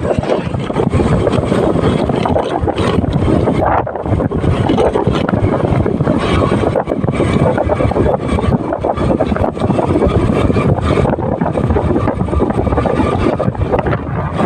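Motorcycle on the move: wind rushing over the microphone, with the engine running underneath.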